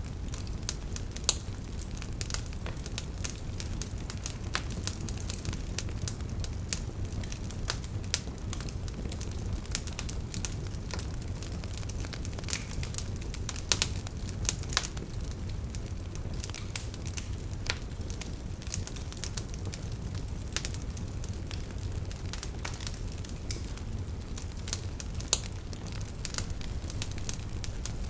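Wood campfire burning, with a steady low rumble of flames and irregular sharp crackles and pops from the firewood.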